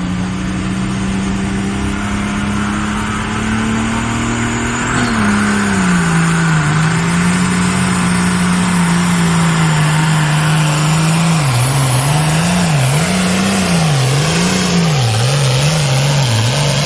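Pulling tractor's engine running hard under load on the sled. Its pitch holds steady and creeps up, drops sharply about five seconds in, then rises and falls several times in quick swings near the end.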